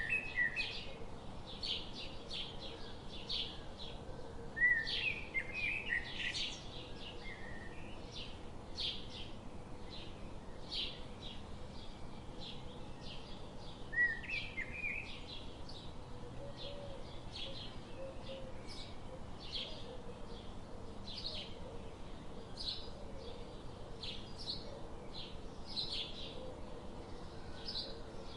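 Birds chirping: many short high calls repeat throughout over a steady background hiss, with louder rising calls about five and fourteen seconds in.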